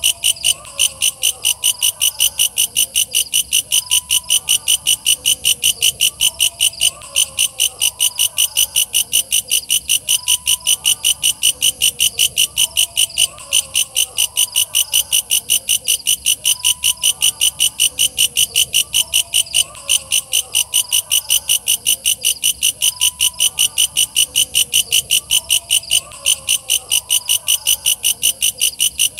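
Walang kecek bush cricket stridulating: a fast, even train of high-pitched chirping pulses that never lets up. Fainter, lower calls sound beneath it.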